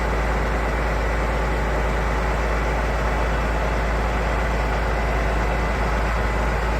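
Heavy vehicle engine running steadily, a constant low rumble that does not change in pitch or level.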